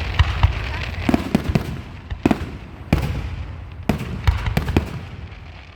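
Aerial fireworks display: a rapid, irregular string of booming shell bursts and sharper pops over steady crackling.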